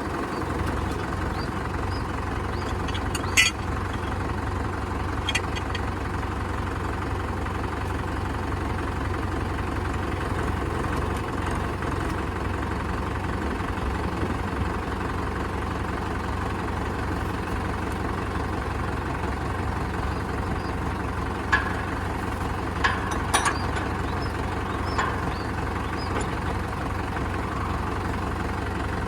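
Tractor diesel engine running steadily, with a few sharp clanks about three seconds in and again about twenty-one to twenty-four seconds in.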